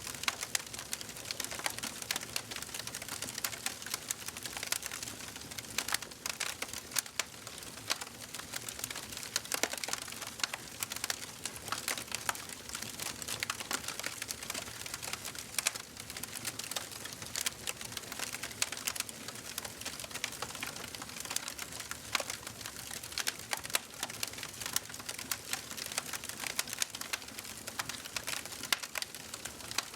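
Wood fire burning in a fireplace, with many irregular sharp crackles and pops over a steady soft hiss.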